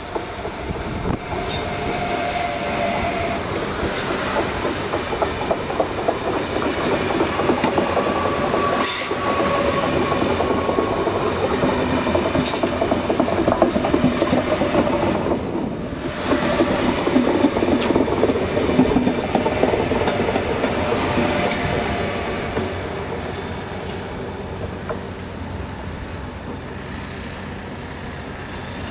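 AnsaldoBreda V250 (Fyra) high-speed train passing close along a station platform: wheels clicking and rattling over rail joints and points, with a few held whining tones over the running noise. It grows quieter from about 22 seconds in.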